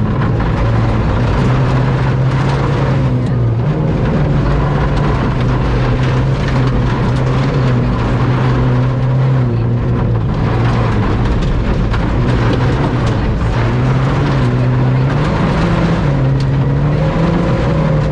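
Ford Fiesta ST rally car's engine at full effort on a stage, heard from inside the cockpit: a loud, steady engine note that climbs and drops several times as the car accelerates, shifts and lifts.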